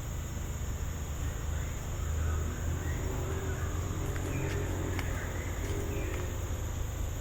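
Forest insects droning steadily in several high, unbroken tones over a constant low rumble, with faint brief calls in the middle.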